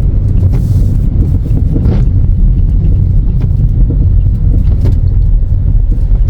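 Steady, loud low rumble of a moving vehicle, with a few faint clicks.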